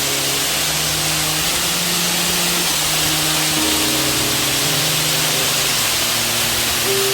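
Steady rush of falling stream water, with background music notes playing over it.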